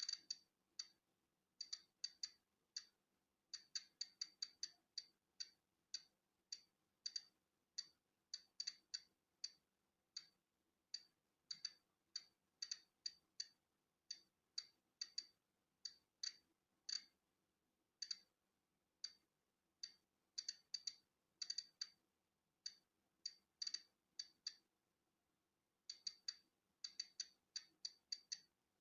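Polon EKO-C digital Geiger counter clicking at random, uneven intervals as it counts natural background radiation; each click is one detected particle. The clicks are short and high, sometimes several in quick succession, with a pause of about two seconds near the end.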